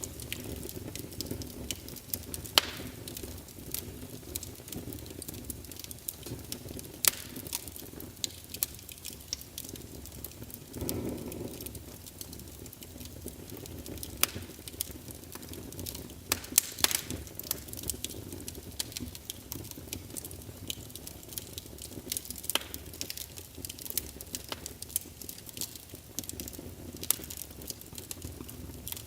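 Wood fire burning in a fireplace: irregular sharp crackles and pops from the logs over a steady low rumble of flame, with a brief louder rush of flame about eleven seconds in.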